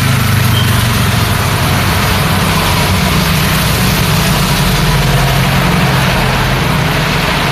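Vehicle engine running steadily close by, a low even hum, under the constant hiss of rain on the road.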